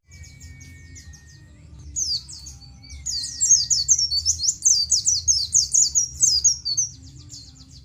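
White-eye (pleci) singing high, rapid chirping notes. There is a short loud burst about two seconds in, then a dense, loud run of fast sweeping chirps from about three to seven seconds.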